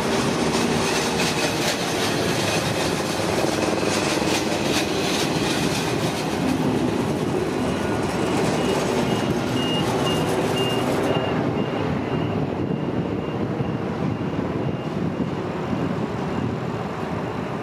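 A train of Norwegian passenger coaches rolling slowly along the track, wheels and running gear rattling steadily. The high end of the rattle falls away about two-thirds of the way through as the coaches draw off, and a faint pulsing high tone sounds just before that.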